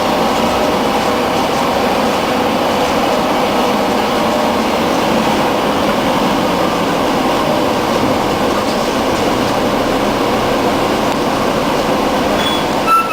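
Scania N113 bus running: a steady drone of its 11-litre straight-six engine mixed with road and body noise. A brief descending tone sounds near the end.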